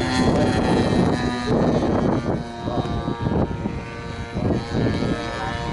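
Large RC model airplane's engine droning as it flies, holding a steady pitch for the first half and then shifting to a higher pitch.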